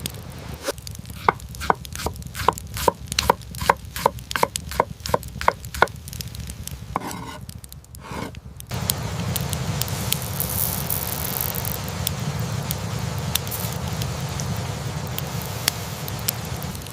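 A knife chopping on a cutting board with even strokes, about three a second, for about five seconds. After a short pause, a steady hiss with scattered crackles sets in.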